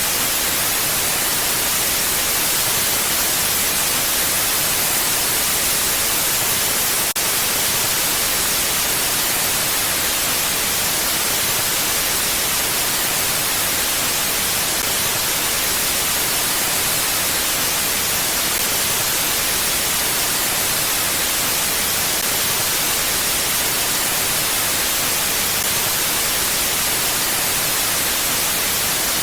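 Steady mountain wind ambience: an even, unbroken hiss, strongest in the high end, with no gusts or swells. There is one very brief dip about seven seconds in.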